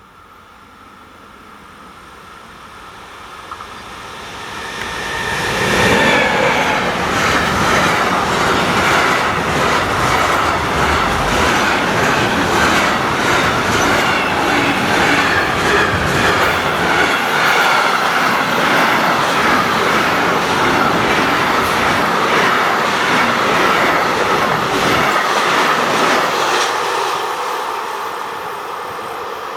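A train passing close by at speed. It builds up over the first few seconds and stays loud for about twenty seconds with a steady, rapid clatter of wheels on the rails, then fades near the end.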